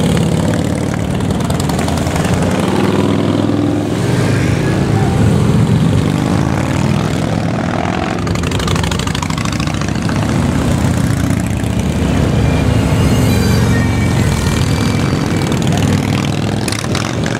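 Many motorcycles riding past in a continuous stream, their engines running loud with revs rising and falling.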